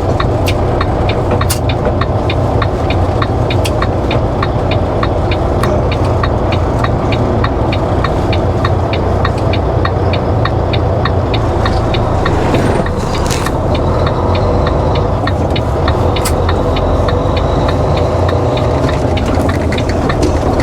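Diesel engine of a 2007 Volvo semi truck running steadily, with a light, regular ticking of several ticks a second over the low hum.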